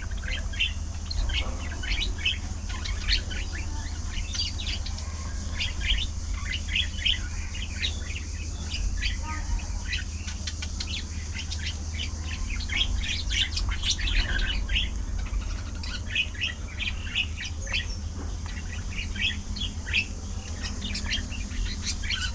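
A flock of budgerigars chattering and chirping, many short calls overlapping continuously, over a steady low hum.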